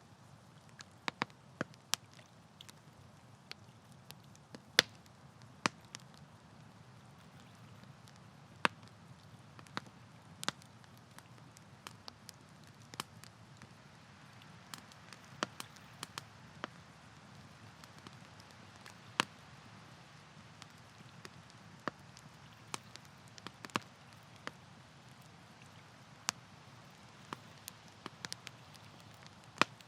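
Wood campfire crackling: sharp, irregular pops and snaps, roughly one or two a second, over a steady low rush of burning.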